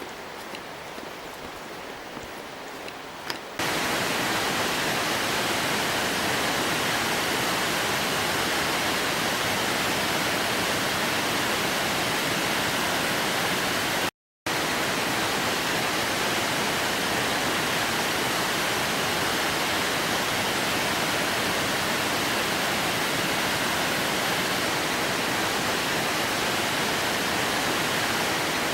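Waterfall: a steady, even rush of falling water that cuts in suddenly a few seconds in, after a quieter start, and drops out to silence for an instant near the middle.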